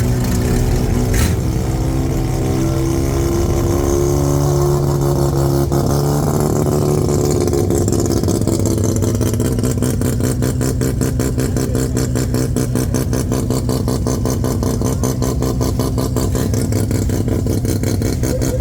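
Car engine running steadily, with a rapid even pulsing in its sound from about halfway through.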